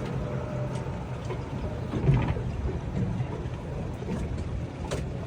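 Tow boat's engine running steadily at slow speed while towing a jet boat alongside, a low rumble with a brief louder swell about two seconds in.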